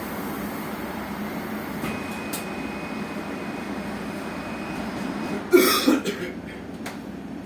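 Steady cabin noise inside an electric bus. A faint thin tone sounds from about two seconds in. About five and a half seconds in comes a brief, loud double burst.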